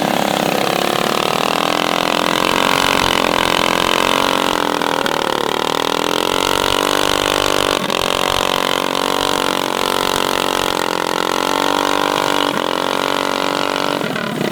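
Mini bike engine running steadily at a fairly constant speed, its pitch sagging slightly a few times.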